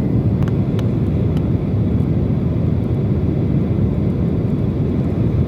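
Steady cabin noise of an airliner descending towards landing: a loud, even rumble of engines and airflow. A couple of faint ticks come within the first second.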